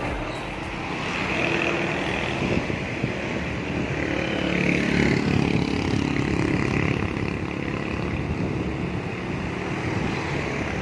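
Road traffic: motor vehicle engines running steadily, growing a little louder about four seconds in.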